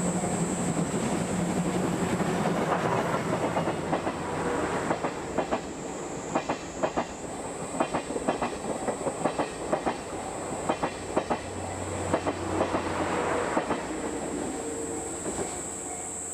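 Steam-hauled train of steam locomotive C57 180 rolling past, its wheels clattering over rail joints in quick runs of paired clicks over a steady rumble.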